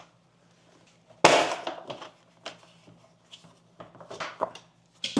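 A KTM 790 Adventure's seat being unlatched and lifted off: a sharp clunk about a second in, then small clicks and plastic knocks, and another loud clunk near the end.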